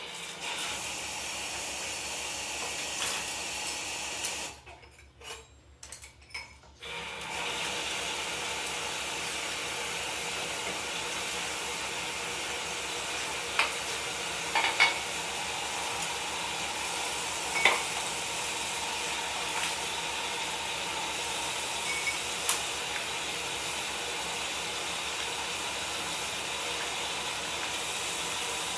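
Food cooking in a pot on the stove: a steady sizzling hiss with a few sharp clinks of a utensil against the pot. The hiss breaks off for about two seconds near the start, then carries on.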